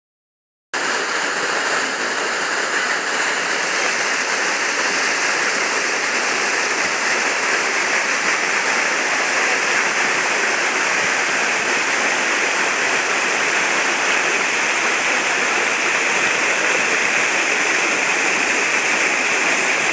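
Waterfall: a steady rush of falling water, starting abruptly about a second in.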